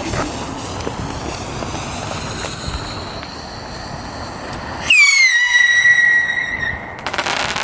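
A steady hiss, then about five seconds in a loud firework whistle whose pitch drops quickly and then holds for about two seconds. A short burst of crackling follows near the end.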